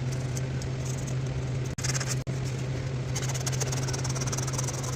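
A hand file rasping on a metal power-valve part, the scraping strongest through the second half, over a steady low hum from a shop fan.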